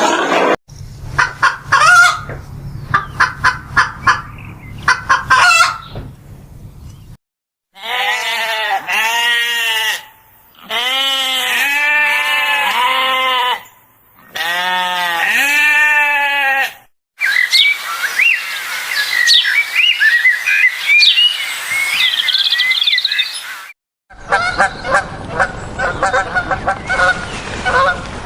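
Farm poultry calling in several short cut-together clips: runs of repeated honking calls in bursts of a few seconds, a stretch of high chirping, and a flock honking steadily near the end.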